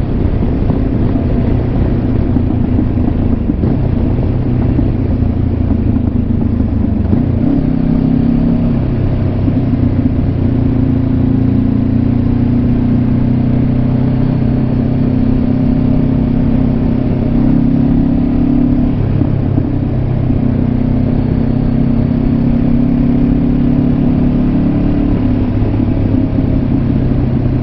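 Honda CB500X's parallel-twin engine running under way, heard through a mic inside the rider's helmet. It is a steady engine note that changes pitch a few times, about seven seconds in and again near two-thirds of the way through.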